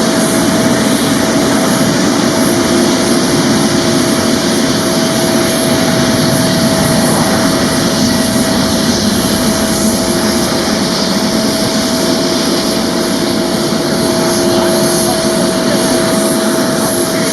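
Boeing 747-400's four jet engines at takeoff power: a loud, steady roar with a constant tone running through it.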